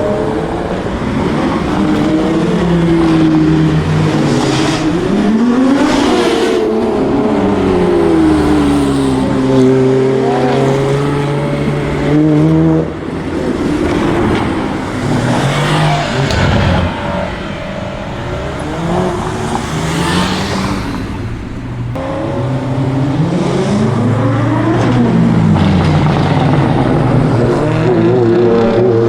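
Performance cars with loud engines pulling away and revving hard one after another, their engine pitch climbing through the gears and falling as each car passes by.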